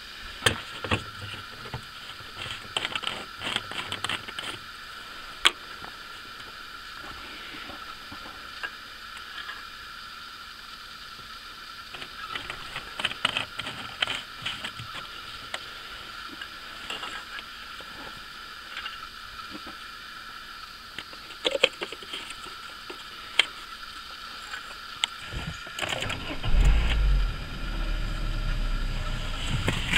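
Scattered small clicks and knocks of hand work with a plastic syringe and fluid bottle. Near the end, a Citroen Xsara's engine starts and settles into a steady idle.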